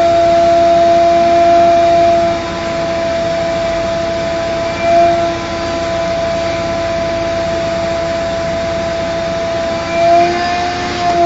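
Vacuum cleaner running steadily, sucking dirt out of a car's interior, with a constant whine over a rushing hiss. Its pitch wavers briefly about five seconds in and again near the end.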